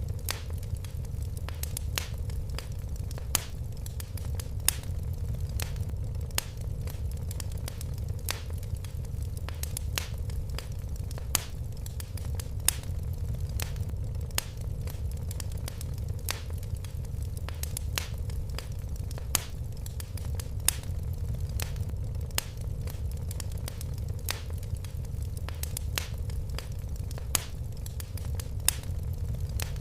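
Wood fire crackling in a fireplace: a steady low rumble of burning with frequent sharp pops and snaps at irregular intervals.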